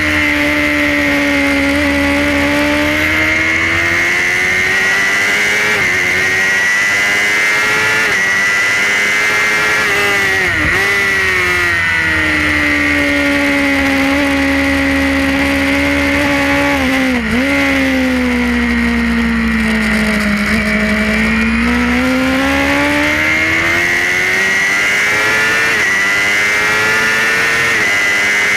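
Suzuki GSX-R racing motorcycle's inline-four engine heard from on board at high revs. Its note sinks slowly and climbs back twice, with two sharp, brief dips in pitch at about ten and seventeen seconds in.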